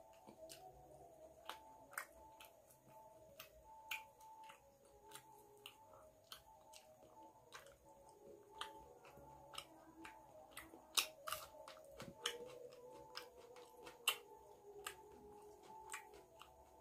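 Close-up chewing and mouth sounds of a person eating rice and curry by hand: many short, irregular wet clicks and smacks. Faint background music underneath.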